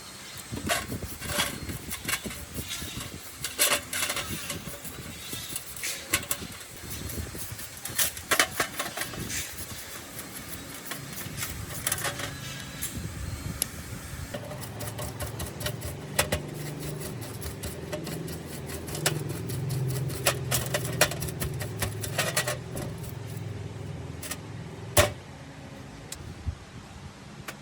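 Workshop work noise: scattered sharp clicks and knocks of tools on metal parts. About halfway through, a steady mechanical hum joins them, and it stops near the end.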